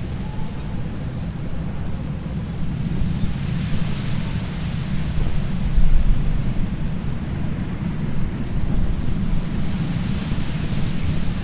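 Strong sea wind buffeting the microphone in a steady low rumble, over a hissing wash of surf that swells twice.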